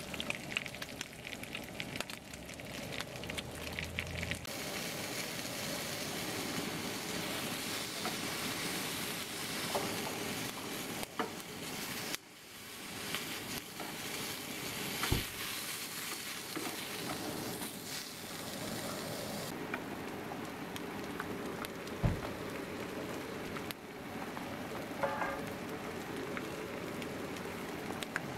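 Bacon, then sausages, then eggs sizzling steadily in a small rectangular frying pan, with a couple of sharp clicks along the way.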